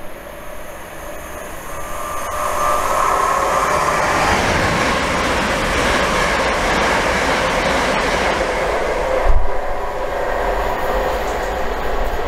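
Passenger train running through the station at speed. Its noise swells in about two seconds in with a brief whine, stays loud as the train rushes past, and includes one heavy thump about nine seconds in.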